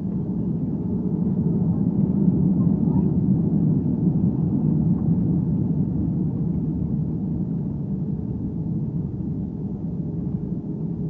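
Airbus A320 cabin noise during landing: a steady low rumble of engines, airflow and running gear heard from inside the cabin. It swells a little a couple of seconds in, then eases off slowly.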